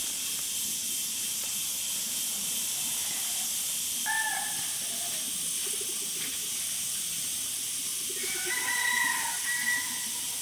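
Steady high-pitched outdoor hiss, with a few short pitched calls about four seconds in and again near the end.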